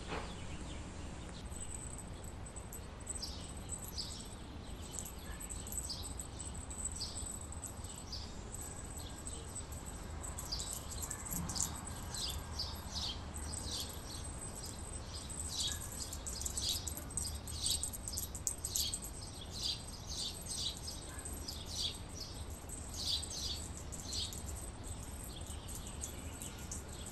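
Small birds chirping: many short, high chirps, few at first and then coming thick and fast through the second half.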